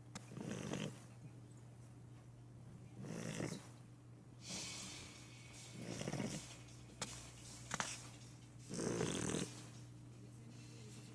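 Shar-pei dog snoring while asleep, one snore every two to three seconds, with two short clicks in the middle.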